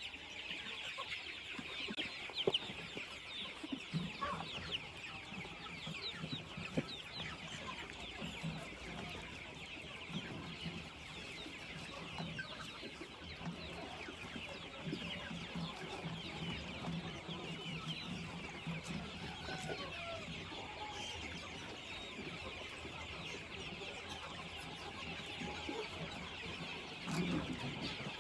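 A flock of free-range chickens clucking, with a constant chorus of many short, high-pitched calls.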